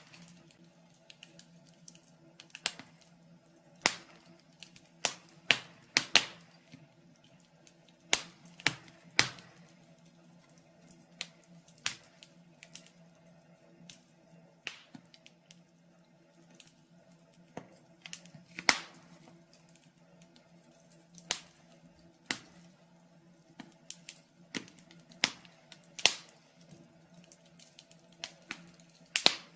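Wood fire in a fireplace crackling, with irregular sharp pops and snaps, some in quick clusters and some spaced seconds apart, over a faint steady low hum.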